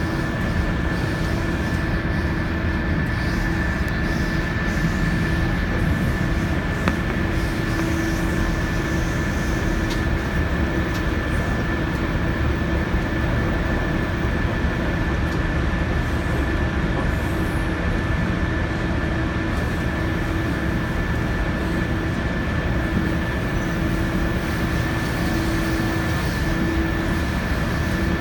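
Odoriko limited express train running at steady speed on the Tōkaidō Line, heard from on board: a continuous rumble of wheels on rail with a steady high-pitched hum and a lower drone over it.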